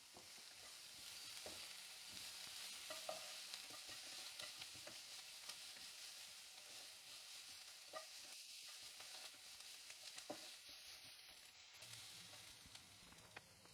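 Faint sizzling of chopped onion and green chillies frying in oil in a pan, with a few light clicks of a spoon stirring against the pan.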